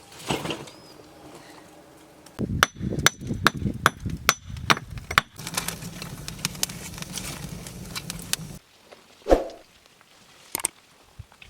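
A quick run of about nine sharp knocks, like hard strikes, then a steady rough noise for about three seconds, a single heavier thump, and two faint clicks near the end.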